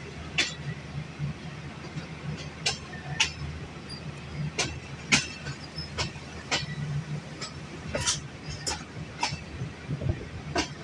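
Passenger train wheels rolling slowly over rail joints and points, about a dozen sharp irregular clacks over a low steady rumble, as the train crosses from the loop line onto the main line.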